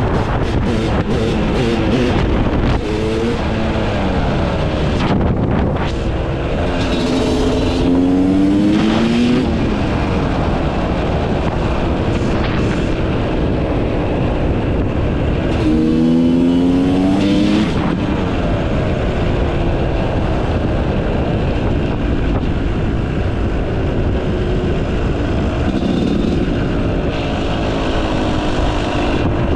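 Yamaha YZ250 two-stroke motocross engine with a Pro Circuit exhaust, ridden hard and revving up and down with the throttle. Its pitch climbs steeply twice, about a quarter of the way in and again just past halfway, with brief drops between.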